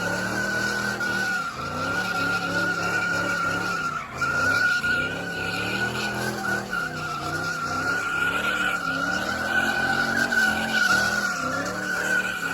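A car's tires screeching steadily as they spin on the pavement in a burnout, with the engine revving up and down over and over beneath the squeal.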